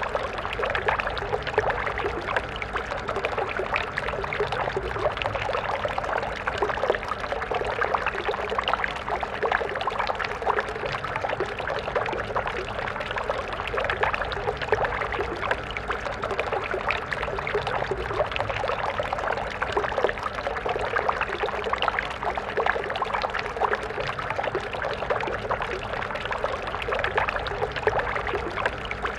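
Stream water flowing and splashing over rocks in a steady, even rush with constant small gurgles.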